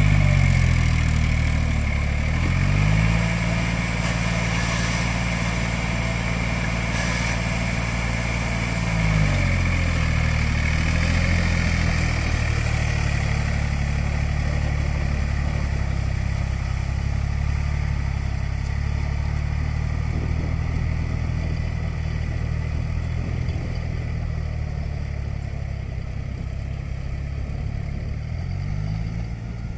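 New Holland 47 hp tractor's diesel engine running steadily under load. Its engine speed dips briefly and picks up again a few times.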